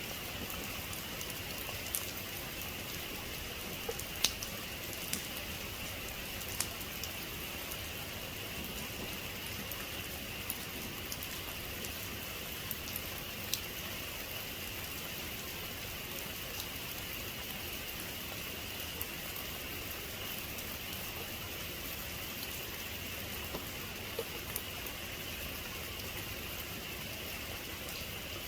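Steady rain falling: a continuous even hiss with scattered sharper drops ticking on a surface now and then.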